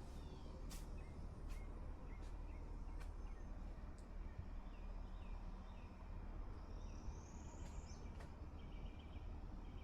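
Quiet outdoor ambience: a steady low hum with faint bird chirps, one longer gliding call about two-thirds through, and a few light clicks.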